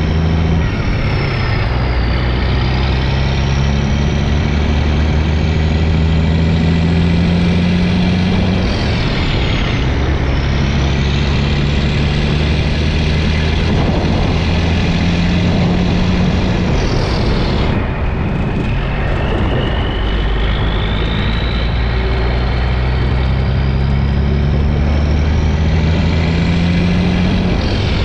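Semi truck's turbo diesel engine running through a new dual-stack exhaust with 5-inch mufflers, pulling through the gears: the engine pitch climbs slowly and drops back at each upshift, three times.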